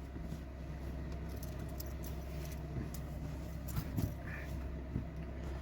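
Steady low hum of a heater running inside a small van, with a few faint rustles and soft knocks near the middle and end.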